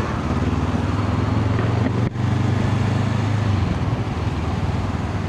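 Honda CL500's parallel-twin engine running while riding, over a steady rush of wind noise. The engine note breaks briefly about two seconds in and fades near the end as the throttle eases off.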